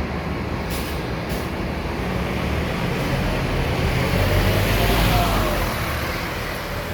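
Scania K230UB city bus's diesel engine running, growing louder to a peak about five seconds in and then easing off.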